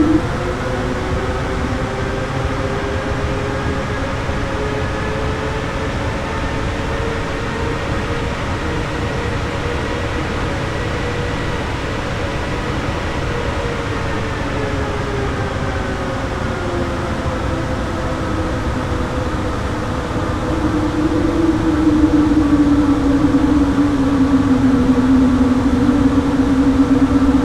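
Airbus A321neo's Pratt & Whitney PW1100G geared turbofan engines running during the approach to landing: a steady rushing drone with several humming tones that slowly rise and fall in pitch as thrust changes. It gets louder about two-thirds of the way through, with a strong low hum.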